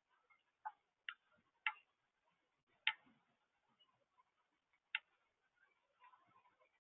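Water drops falling onto a hard surface close to the microphone: about five sharp ticks at uneven intervals, the loudest about three seconds in.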